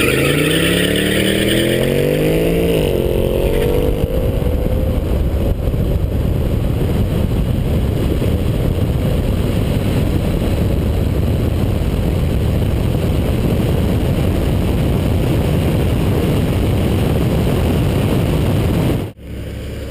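BMW M5 E60's V10 launched hard, its revs climbing steeply through the first gear with a shift about three seconds in. The engine then disappears into a loud, steady rush of wind and road noise at speed, which cuts off sharply near the end.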